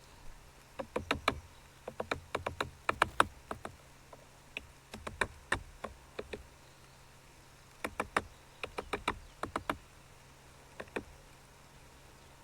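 A bird knocking and tapping on the wildlife camera's housing, heard up close as quick clusters of sharp taps, each run a second or so long, in four bursts with pauses between.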